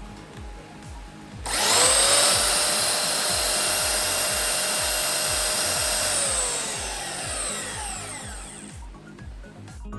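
Makita M9400B belt sander switched on about a second and a half in: its motor whine rises quickly to a steady high pitch and runs for about five seconds. It is then switched off and winds down, falling in pitch over some three seconds. Background music with a steady beat plays throughout.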